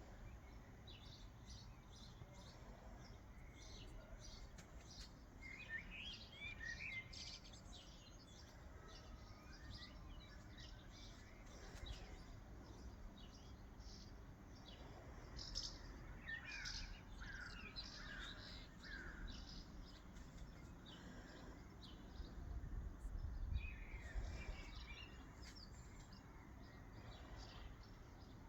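Birds chirping and singing: many short high chirps throughout, with three longer runs of song, and a low rumble about three-quarters of the way through.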